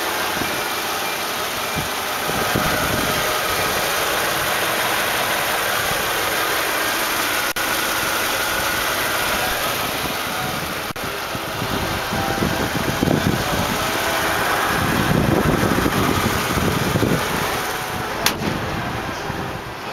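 Mercedes-Benz S430's 4.3-litre V8 idling steadily, heard from over the open engine bay. A single sharp click sounds near the end.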